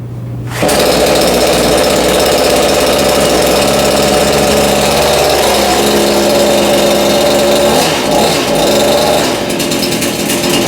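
Portland 42cc two-stroke chainsaw engine catching on its first pull about half a second in, then running loudly, its speed wavering a little around the middle. This is the brand-new saw's first start.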